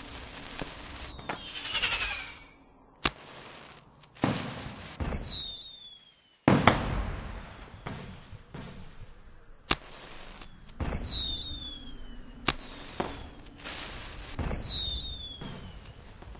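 Fireworks going off: irregular sharp bangs, the loudest about six and a half seconds in, with several whistles that fall in pitch.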